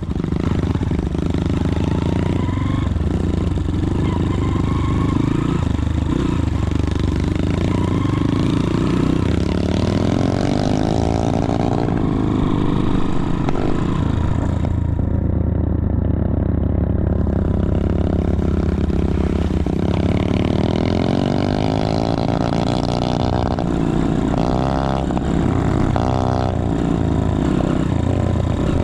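Motorcycle engine running and revving, its pitch rising and falling over and over.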